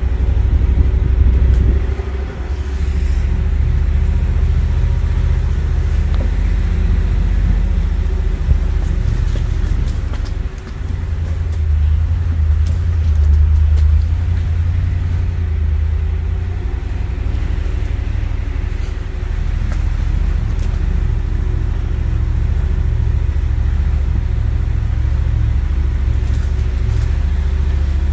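Pickup truck driving slowly over a rough dirt trail, heard from its open bed: a steady low engine and road rumble.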